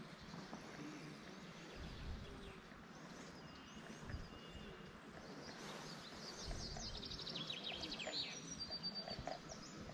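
Faint outdoor ambience with small birds chirping and singing, including a rapid trill from about six and a half seconds in, and a few soft low bumps.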